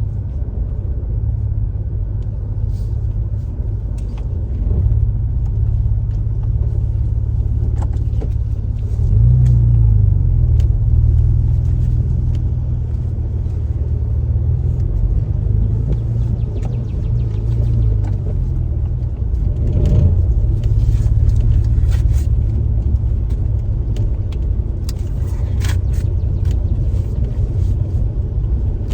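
Porsche 987.1 Cayman S with a TPC turbo kit on the road, its 3.4-litre flat-six running on freshly fitted spark plugs and coil packs meant to cure misfire codes. Steady low rumble that swells louder about nine seconds in and again about twenty seconds in.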